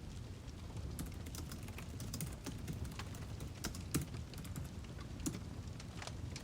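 Wood fire crackling: irregular sharp pops and snaps over a steady low rumble, with one louder pop about four seconds in.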